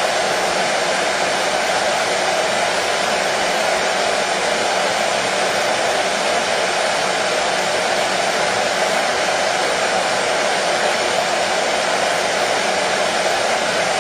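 Hair dryer running continuously at a steady level: an even whooshing noise with a faint motor hum and no changes.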